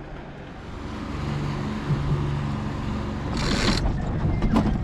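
A boat's motor running with a steady hum that grows louder about a second in. A short burst of hiss cuts across it about three and a half seconds in.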